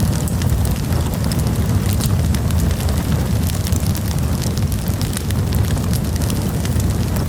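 Campfire crackling: many small, sharp pops and snaps over a steady low rumble.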